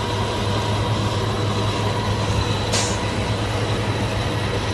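Roll-off truck's engine running steadily with a low hum. A brief hiss cuts in about three seconds in.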